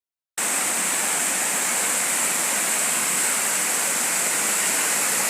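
Steady rush of flowing water, starting abruptly just after the beginning and holding even throughout.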